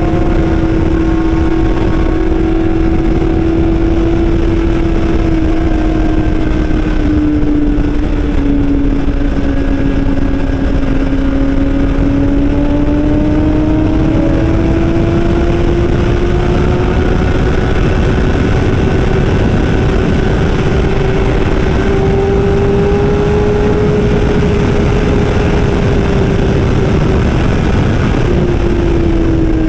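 Superbike engine running at a steady cruise, its pitch drifting slowly down and back up over many seconds, over a heavy low rushing rumble.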